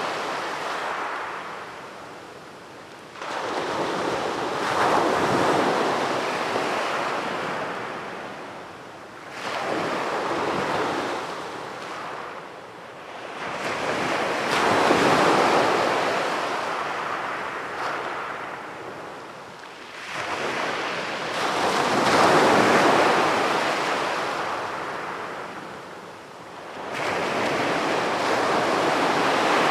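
Sea waves breaking on a beach, each wave rising to a rush and then washing out over several seconds, about five in a row.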